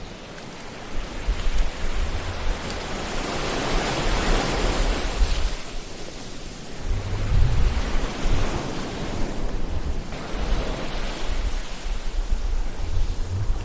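Ocean surf: waves washing in, the hiss swelling to a peak about four to five seconds in and then fading, with a deep rumble that rises again about seven seconds in and near the end.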